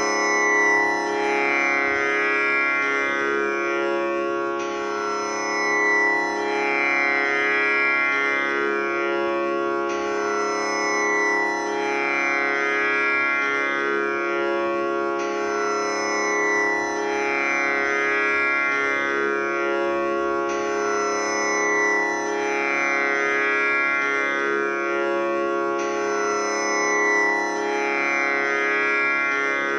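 Tanpura drone tuned to C#, its strings plucked in a slow repeating cycle of about five seconds, the notes overlapping into one continuous sustained drone.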